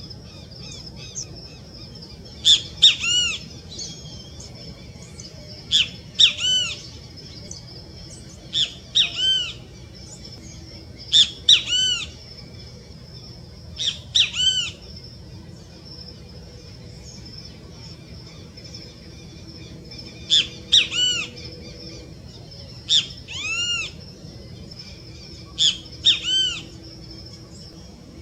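Songbird calling: a short, loud phrase of two or three arched notes, repeated about every three seconds over a faint steady high tone.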